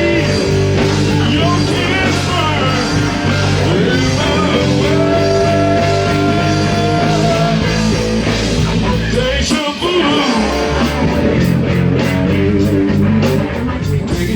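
A rock band playing, with bass, electric guitar and drums, and some singing. The sound drops out briefly about nine and a half seconds in, then the band comes back in with busy cymbals.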